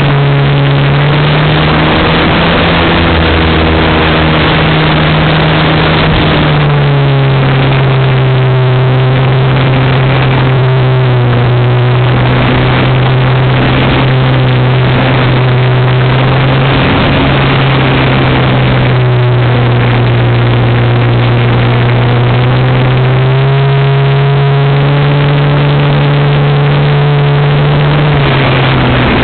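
RC Super Cub's electric motor and propeller whining in flight, the pitch stepping up and down with the throttle: up about a second in, down around a quarter of the way through, up again near the end, then down. A steady rush of air runs underneath.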